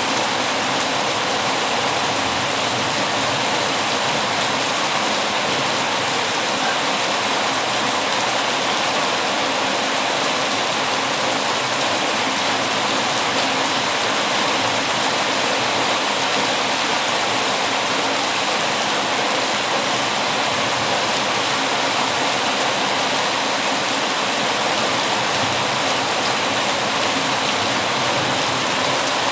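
Heavy rain falling steadily, an even, unbroken rushing hiss.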